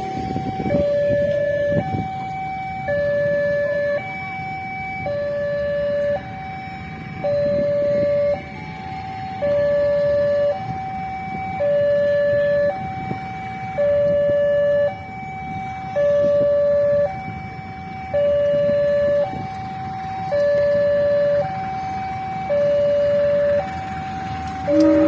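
Railway level crossing warning alarm sounding: an electronic two-tone signal alternating between a lower and a higher tone about once a second, over a low rumble of traffic.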